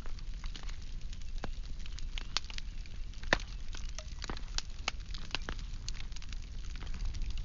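Firewood burning: logs crackling with irregular sharp pops over a low steady rumble, and one louder pop about three seconds in.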